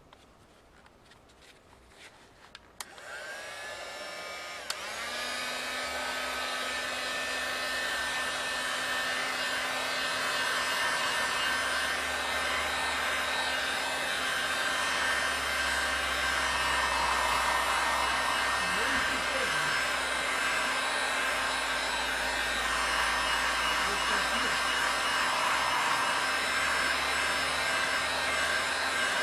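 Hot air gun switched on after a few faint clicks. Its fan spins up with a rising whine, steps up again about two seconds later, and then runs steadily.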